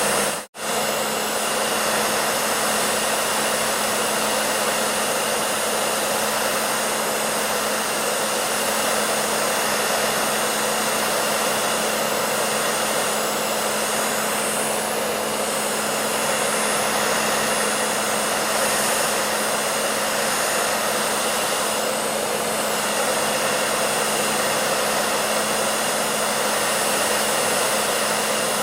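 Hair dryer running steadily: an even rush of air with a low motor hum underneath. It cuts out for a split second about half a second in, then carries on unchanged.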